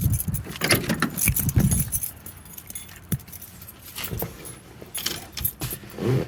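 A ring of keys jangling, with scattered clicks and low knocks from handling, busiest in the first two seconds.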